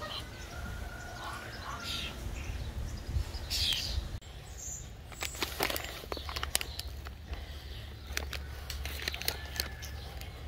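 Outdoor bird sounds: a few short chirps early on, then a run of sharp taps or flaps through the second half, over a steady low rumble.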